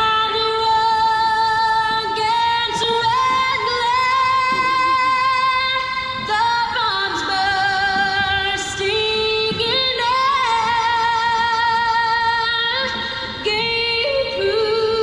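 A woman singing a national anthem solo, holding long notes with vibrato and sliding between pitches.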